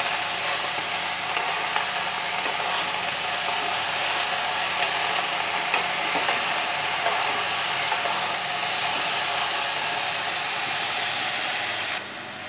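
Chopped snake gourd frying in mustard oil in a kadai, a steady sizzle, while a metal spatula turns it with scattered clicks and scrapes against the pan. The sizzle drops away sharply near the end.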